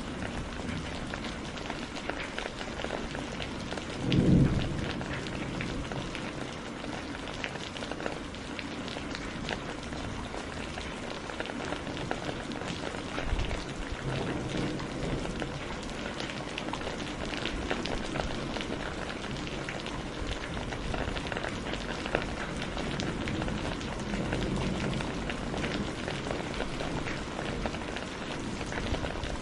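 Heavy rain falling steadily, dense drops pattering on a surface, with a loud low thunderclap about four seconds in and fainter rumbles later.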